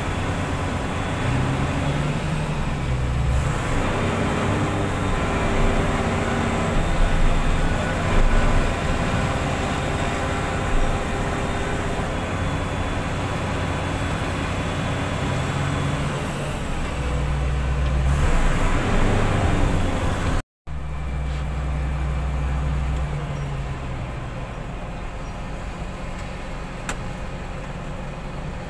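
Heavy diesel engine of a wheel loader working, revving up and down as it loads a dump truck. A sudden cut about two-thirds through.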